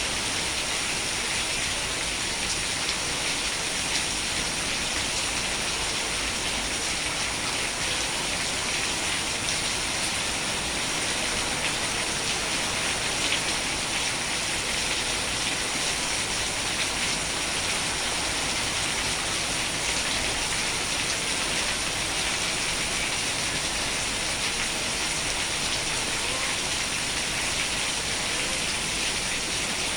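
Steady rain falling: a dense, even patter of drops with fine individual ticks.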